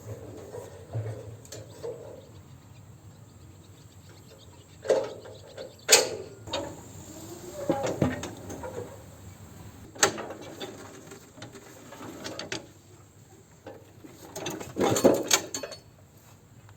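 Scattered sharp knocks and clatter, a handful over several seconds, the loudest about six and ten seconds in, with softer rustling in between.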